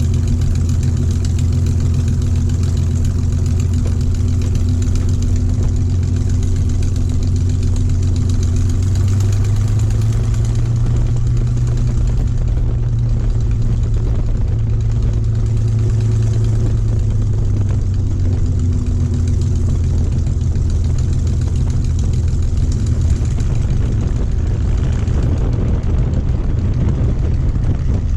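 Merlin V12 piston aero engine running steadily: a loud, deep, even drone whose pitch rises slightly about ten seconds in.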